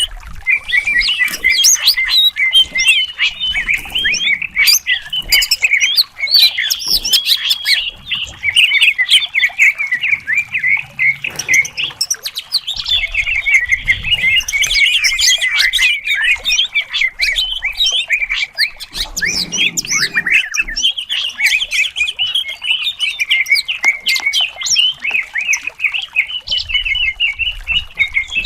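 Cucak cungkok singing without a break: a fast, dense run of sharp chirps, squawky notes and varied phrases, the kind of song used as a 'masteran' to train and fire up other songbirds.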